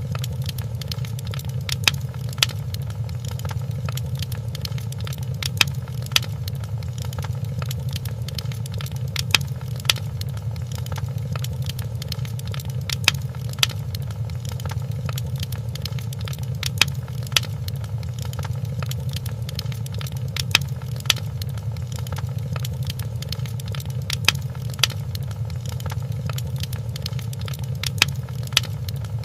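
Wood fire crackling in a fireplace: sharp pops and snaps, often two in quick succession every few seconds, over a steady low rumble of the flames.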